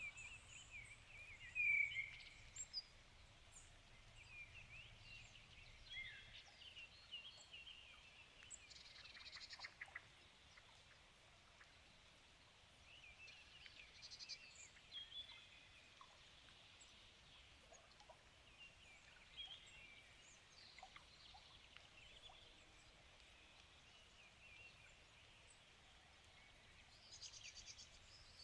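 Several wild birds singing: faint, scattered chirps and short whistled phrases, with a few quick buzzy trills. The loudest chirp comes about two seconds in.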